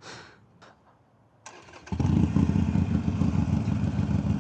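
Harley-Davidson Iron 883 V-twin motorcycle engine started about a second and a half in, catching at once and then running steadily at idle.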